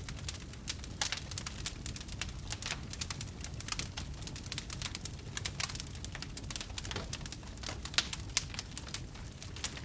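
Wood fire burning, with many irregular crackles and pops over a low steady rumble of the flames; one louder pop about 8 seconds in.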